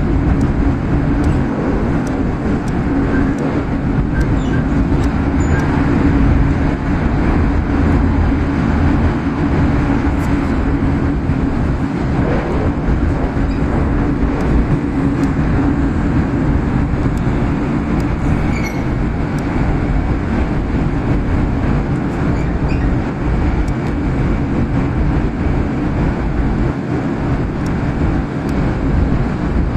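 Tohoku Shinkansen train running at speed, heard from inside the passenger car: a steady, loud rumble of wheels on rail and rushing air, with a few faint clicks.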